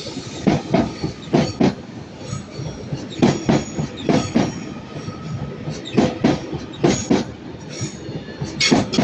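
TransPennine Express Class 397 electric multiple unit rolling over rail joints, its wheels knocking in quick pairs as each bogie crosses, a pair about every second: the train's clickety-clack track noise.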